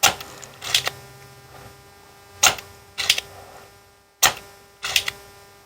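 Spring-loaded solder sucker (desoldering pump) being cocked and fired three times, each time a pair of sharp plastic clicks, as old solder is pulled off the circuit board joints.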